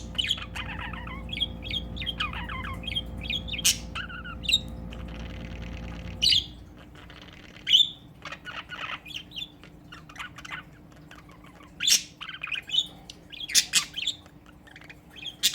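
Two budgies chattering to each other: fast warbling chirps for the first several seconds, then sparser chirps broken by several loud, sharp squawks. A low steady hum underneath stops about six seconds in.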